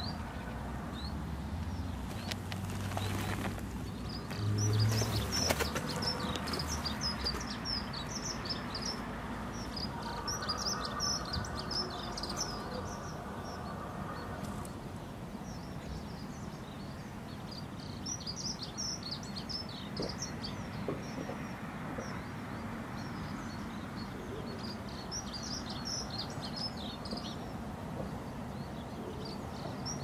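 Small birds chirping in quick, short, high calls again and again over a steady outdoor background noise, with a few low bumps about four to five seconds in.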